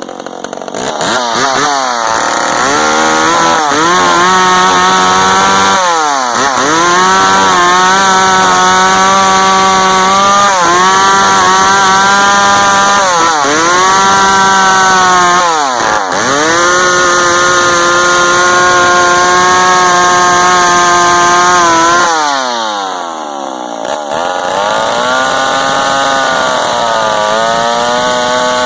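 McCulloch Pro Mac 55 two-stroke chainsaw engine revving up and held at high revs, with four brief sharp drops in engine speed along the way. Near the end it falls back, then picks up again to a steadier, lower speed.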